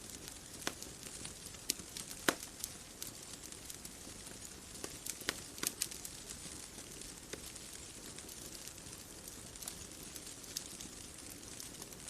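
Bonfire crackling: irregular sharp pops and snaps of burning wood over a steady soft hiss, with a few louder pops about two seconds in and near the middle.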